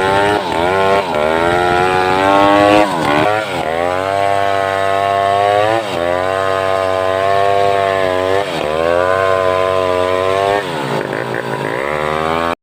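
Homemade two-stroke chainsaw ripping mindi wood at high revs, its engine pitch dipping and recovering several times as the chain loads in the cut. It cuts off suddenly at the end.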